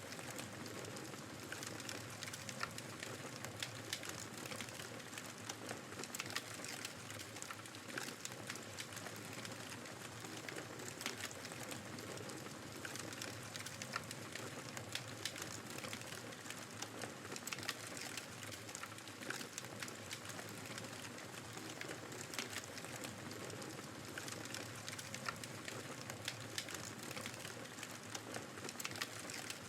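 Wood fire crackling in a fireplace, with frequent sharp pops and snaps, over the steady rushing noise of a snowstorm's wind.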